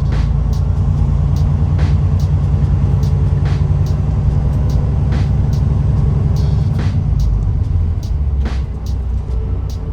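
Semi-truck running in slow traffic, heard inside the cab: a steady low engine and road rumble, easing off slightly about seven seconds in, with sharp irregular clicks over it.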